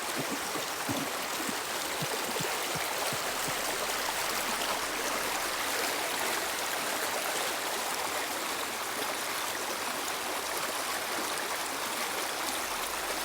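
River water flowing and rushing over rocks, a steady, even sound.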